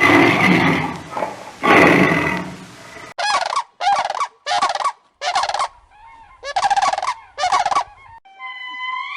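Turkey gobbling: six short warbling gobbles in quick succession from about three seconds in, preceded by two loud rough animal calls and followed near the end by a gliding musical tone.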